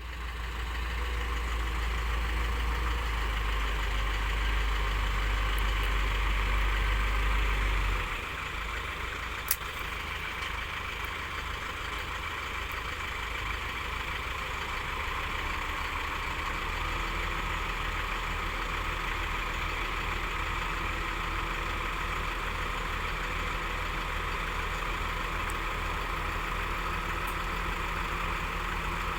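Shantui DH10B2 mini bulldozer's diesel engine running steadily. It is louder for the first eight seconds, then drops to a lower level and keeps running, with a single sharp click a little after that.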